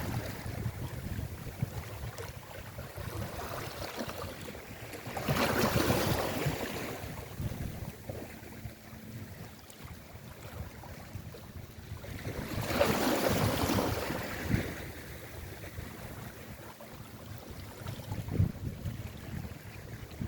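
Sea waves washing onto the shore, two long rushes of surf that swell and fade about seven seconds apart, over steady wind buffeting the microphone.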